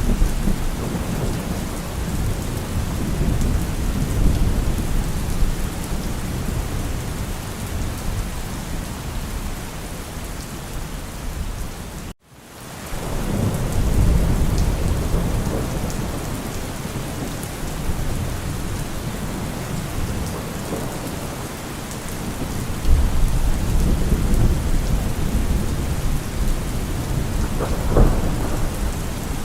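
Steady heavy rain with low rolling thunder rumbles that swell and fade, louder again about two-thirds of the way through. The sound cuts out for a split second about twelve seconds in, then returns.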